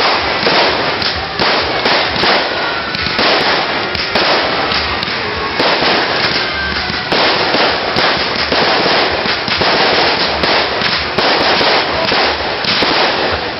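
Campfire burning with dense, continuous crackling and popping.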